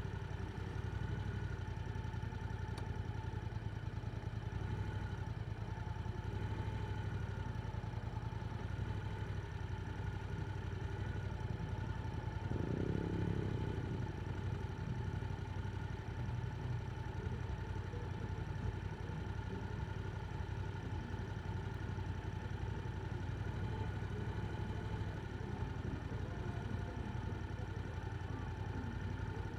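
Yamaha R7 parallel-twin engine with an Akrapovic exhaust running at a steady engine speed. There is a brief swell in the sound about halfway through.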